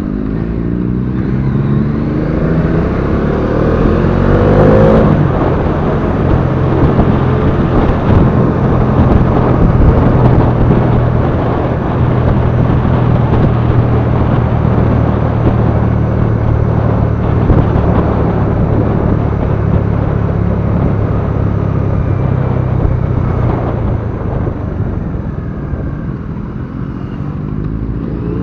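Bajaj Dominar 400's single-cylinder engine under way, rising in pitch as it accelerates over the first few seconds, then holding a steady drone at cruising speed with a dense rush of wind and road noise. It eases off a little near the end.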